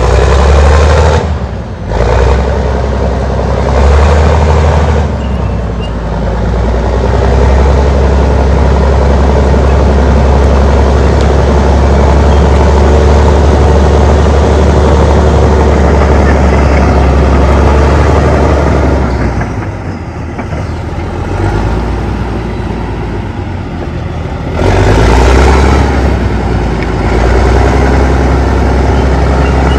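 Allis-Chalmers HD-21 crawler dozer's diesel engine working under load, a loud steady rumble that surges and eases. It drops back for a few seconds about two-thirds of the way in, then picks up again.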